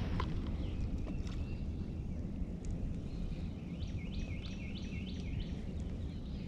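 A bird calling a quick run of about six repeated chirped notes, over a steady low outdoor rumble.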